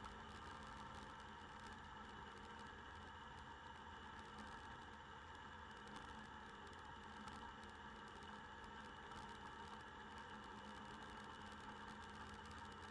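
Faint, muffled motorbike riding noise heard through a bike-mounted camera: a steady hum with rapid, irregular ticking and rattling.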